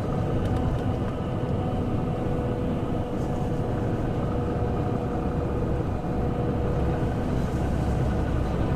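Truck's engine and road noise heard inside the cab while driving: a steady drone with faint constant hums running through it.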